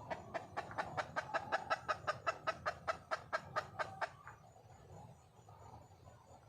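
Junglefowl hen giving a fast run of short, sharp clucks, about six a second for some four seconds, then stopping. It is a wild hen's call to attract a male.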